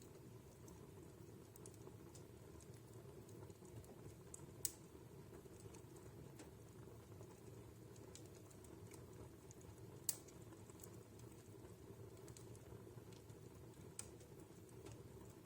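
Wood fire burning in a fireplace, faint: a soft low rumble of the flames with scattered small crackles, and two sharper pops of the burning wood, about four and a half and ten seconds in.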